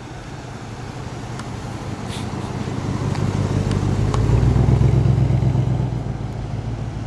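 A vintage car's engine running at low speed as the car rolls slowly past. The engine grows louder as it comes alongside, about four to five seconds in, then fades as it moves away.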